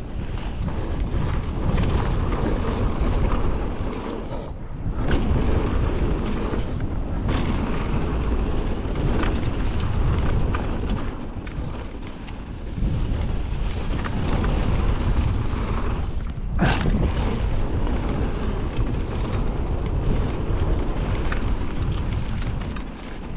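Mountain bike speeding down a dirt trail: wind buffeting the microphone, with tyre rumble and sharp rattling knocks from the bike over rough ground.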